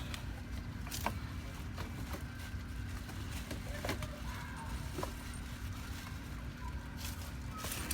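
Steady low background rumble with a few faint, short clicks and taps scattered through it.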